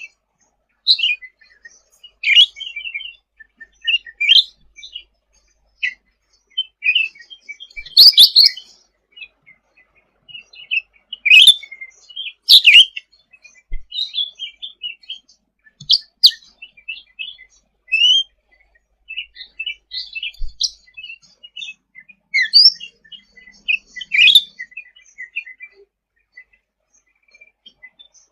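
Cucak ranting songbird singing: a busy run of short, high chirps and quick trills in irregular bursts, with a few louder sharp notes in between.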